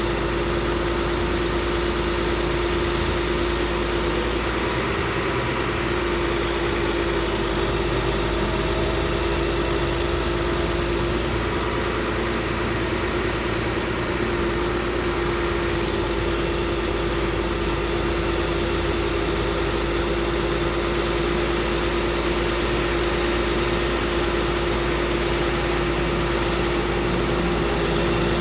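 Caterpillar C7 diesel engine of a Ford F750 bucket truck running steadily, with a steady mid-pitched whine over it.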